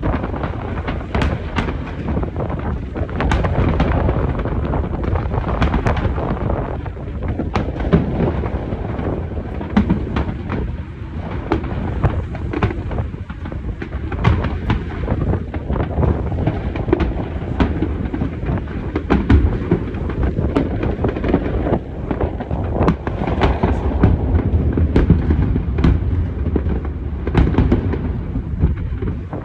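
Large aerial fireworks display: many shells bursting in quick succession, sharp bangs over a continuous low rumble.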